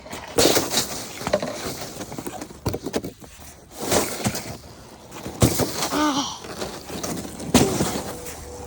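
Snow shovel scraping and knocking through snow in irregular strokes, with a couple of short voice sounds about six and seven and a half seconds in.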